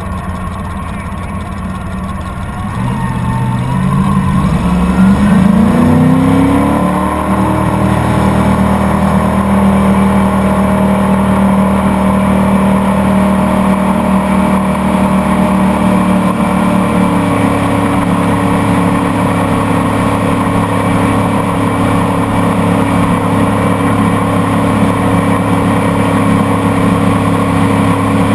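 Boat motor idling, then throttled up about three seconds in, its pitch rising over a few seconds before it settles into a steady run at speed.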